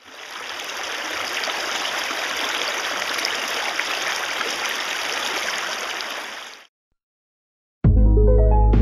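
Steady rush of river water running over rapids, which cuts off abruptly about two-thirds of the way through. After a second of silence, background music starts near the end.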